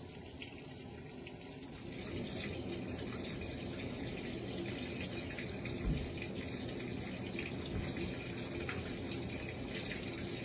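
Water running into the tub of an RCA RPW302 portable washing machine as it fills for the rinse cycle, a steady rush that gets a little louder about two seconds in. There is one soft thump about six seconds in.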